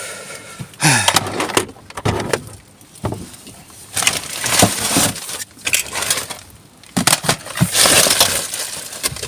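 Rummaging through rubbish in a dumpster: hard discarded items clattering and knocking against each other amid rustling, in irregular bursts with sharp knocks.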